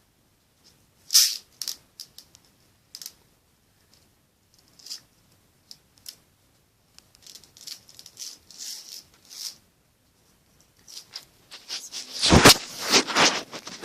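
Pins of a pin art toy clicking and rattling as it is handled: a few scattered light clicks, then a dense burst of rattling near the end.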